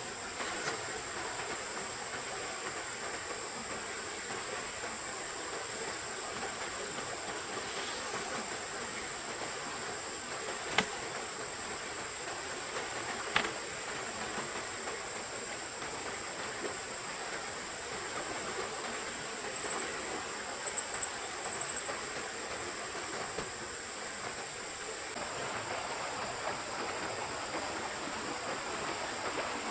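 Steady rushing of a forest stream, with a constant high-pitched whine above it. Two sharp clicks come about 11 and 13 seconds in, and a few short high chirps around 20 to 22 seconds.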